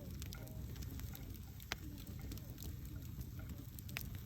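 Wood campfire burning: a steady low rumble of flames with scattered crackles, and sharp pops a little under two seconds in and near the end.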